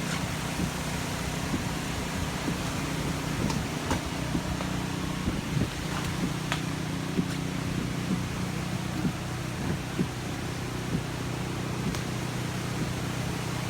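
Steady low motor hum with scattered light clicks.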